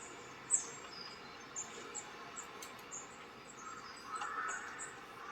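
Small birds chirping: short, very high chirps repeating a few times a second, with a brief lower twitter near the end.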